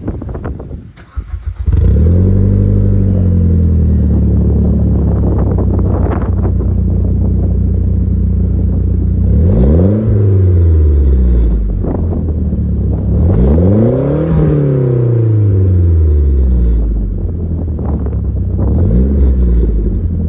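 Exhaust of a Mitsubishi Galant Fortis Ralliart's 2.0-litre turbocharged four-cylinder through an EXAS EVOtune aftermarket muffler. The engine catches about two seconds in, its revs flare and settle into a steady idle, and the throttle is then blipped three times, the second blip revving highest and the last one short.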